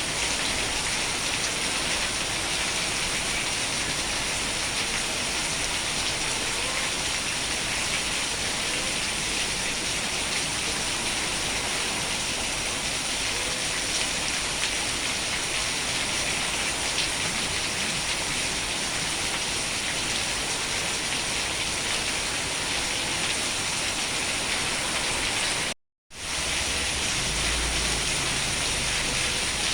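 Steady rain falling, an even hiss with no pauses. Near the end it cuts out abruptly for a split second, then resumes with a little more low rumble underneath.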